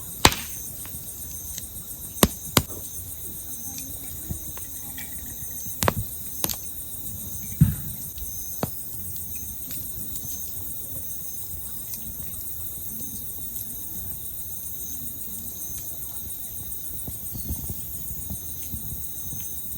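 Firewood burning in a campfire, giving a few sharp pops and crackles, most of them in the first half. Behind it, insects chirr steadily in a high, pulsing trill.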